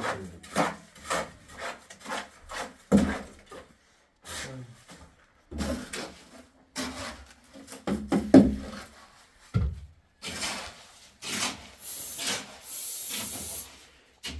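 Repeated rubbing or scraping strokes, about two a second at first, then irregular scrapes and knocks, with a steady hiss near the end.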